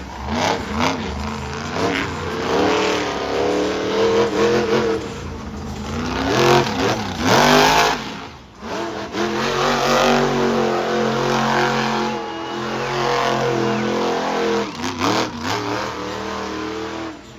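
Monster truck engine revving hard during a freestyle run, its pitch climbing and falling again and again, with a few loud bangs along the way.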